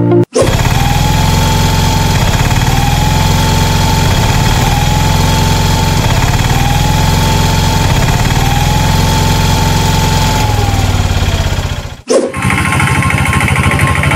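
Engine running steadily with a fast, even pulse, with a faint tone that rises and falls about every two seconds. The sound cuts off abruptly twice, just after the start and about twelve seconds in.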